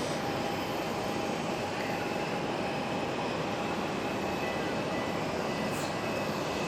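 Steady rush of airport aircraft noise, with faint high-pitched whines held at constant pitch.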